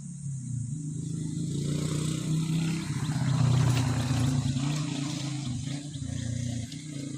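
An engine running with a steady low hum, growing louder to a peak about three and a half seconds in, then easing off a little.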